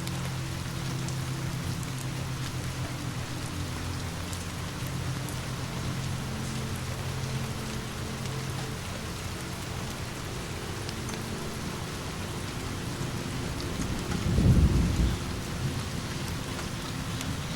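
Steady rain falling, under low rumbling thunder. The thunder swells into a louder rumble about fourteen seconds in, then fades.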